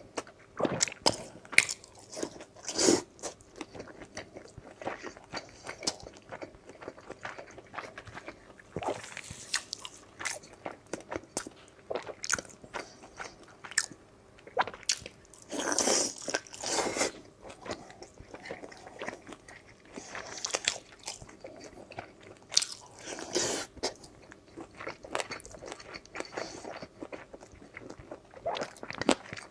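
Close-miked eating of a sauce-dipped roast chicken leg: irregular bites and crunches with wet chewing between them, the loudest crunching bite about halfway through.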